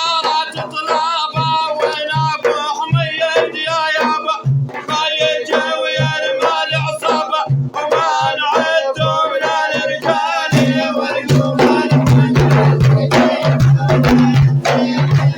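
Male voice singing an Arabic religious praise chant (madih) over hand-drum beats. About ten seconds in, the drumming grows denser and louder and takes over from the voice.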